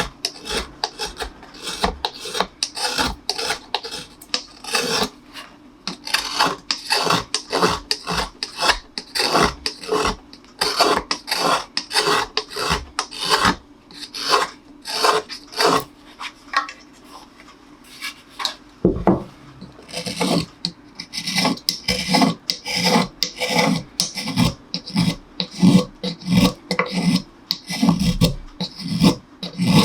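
Hand tool scraping along a wooden cello neck, shaving it down in repeated strokes of about two a second, with a short pause and a low knock about two-thirds of the way in.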